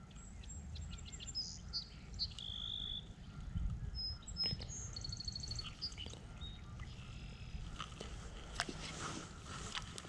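Small birds chirping: several short whistled calls at different pitches and a fast trill about halfway through, over a low steady rumble. A few sharp clicks come near the end.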